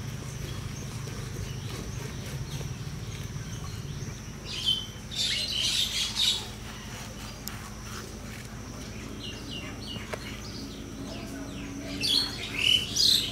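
Small birds chirping in two short bouts, about four and a half seconds in and again near the end, over a steady low hum and a faint steady high whine.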